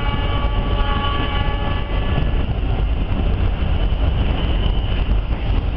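Steady rumble of the Argo Dwipangga passenger train running on the rails, heard from inside the carriage. A train horn sounds through the first two seconds or so, then stops.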